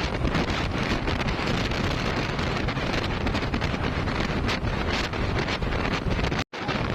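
Wind buffeting the microphone: a loud, steady rumble and hiss that cuts out for a moment near the end.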